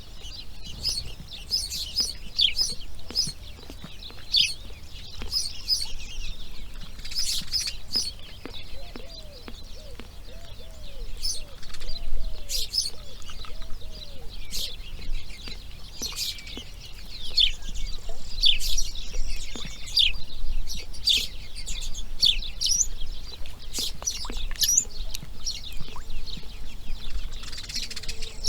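Wild birds chirping and singing, many short high calls and trills overlapping. In the middle a run of about a dozen low, arched notes repeats steadily for several seconds.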